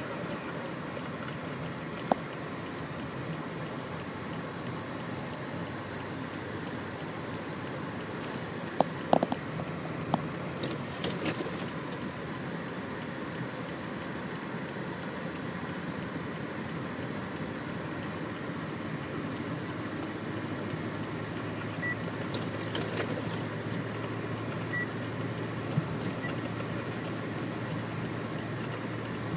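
Steady running noise of a car being driven, with a few sharp clicks and knocks about nine to eleven seconds in.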